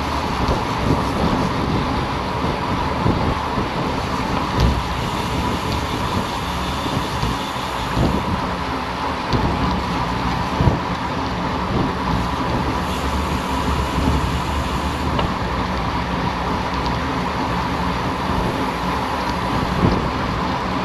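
Steady wind and road noise on the microphone, with low rumbling knocks and a constant hum.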